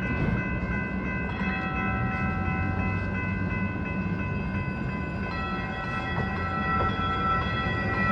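Lynx light rail train running past a grade crossing: a steady low rumble with several steady high-pitched tones held above it, getting a little louder near the end.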